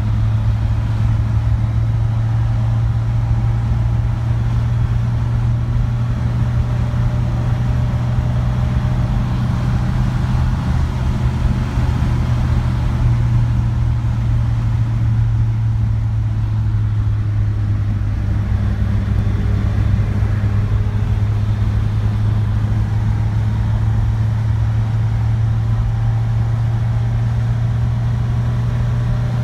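1967 Alfa Romeo Giulia TI 1.3's twin-cam four-cylinder engine running steadily at cruising speed, heard from inside the cabin with road noise. The engine note holds an even pitch throughout.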